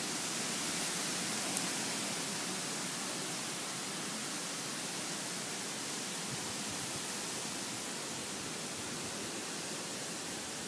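Autumn wind blowing: a steady, even hiss with no gusts, and a single faint click about one and a half seconds in.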